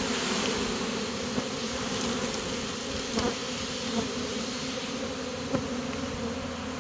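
A swarm of honey bees buzzing, a steady drone at one low pitch, with a few short sharp clicks scattered through it.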